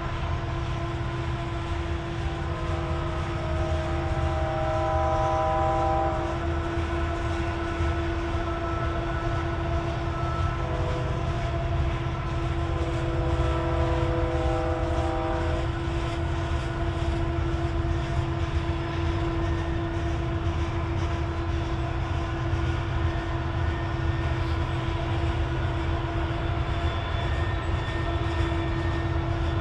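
Loaded coal hopper cars rolling past with a steady low rumble of wheels on rail and a continuous hum. Twice, a few seconds each, a group of higher tones sounds together over it.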